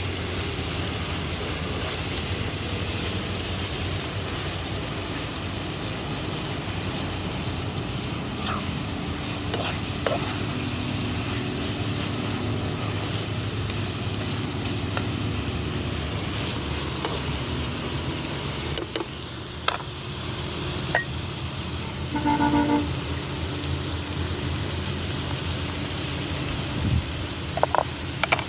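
Food sizzling as it fries in a pan, a steady hiss, with a few light clicks of a utensil. About 22 seconds in there is a brief pitched tone, and a few sharp clicks come near the end.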